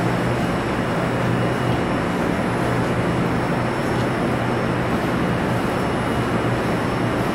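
Steady mechanical rumble and hiss with a low, even drone, typical of a train idling at a station platform.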